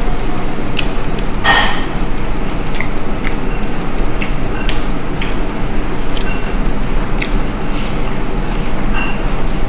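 Close-up eating sounds of a person chewing mixed rice: scattered short wet clicks and smacks of the mouth, with a louder smack about one and a half seconds in, over a steady background noise.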